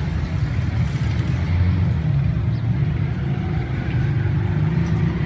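Diesel-electric locomotive engine running, a steady low rumble.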